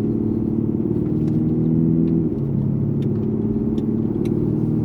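Lexus GS F's 5.0-litre V8 pulling steadily as the car gathers speed, with a sudden drop in pitch about two seconds in as the automatic gearbox shifts up.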